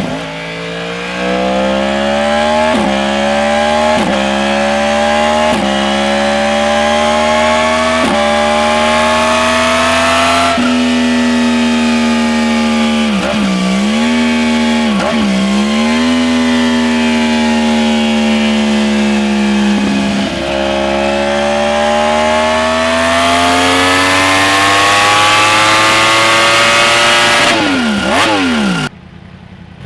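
Yamaha R1 inline-four engine with an aftermarket exhaust accelerating under way: the pitch climbs and drops back with a quick run of upshifts over the first ten seconds, holds fairly steady with two brief dips, climbs again for several seconds, then falls away near the end.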